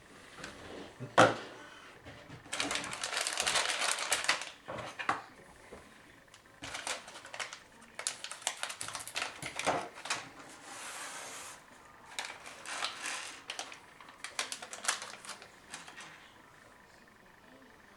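A computer case being worked on by hand: irregular clusters of clicks and rattles from its parts, with a sharp knock about a second in.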